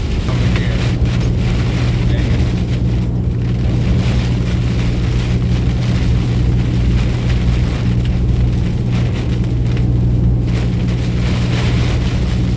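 Truck engine running at a steady drone, a constant low hum with noise over it.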